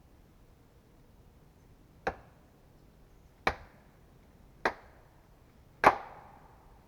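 Four sharp axe strikes into wood, a little over a second apart, the last the loudest and ringing briefly.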